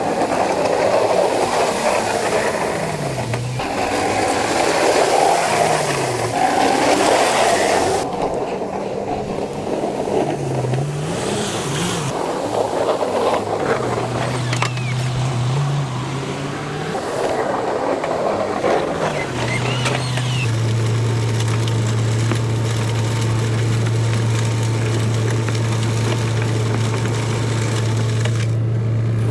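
Engine of a snow-plow vehicle working: its pitch rises and falls as it pushes snow, with spells of rough rushing, scraping noise. About two-thirds of the way through it settles into a steady drone.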